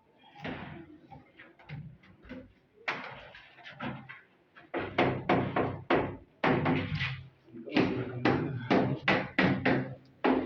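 A series of sharp knocks, scattered at first, then coming fast, about three a second, over the second half.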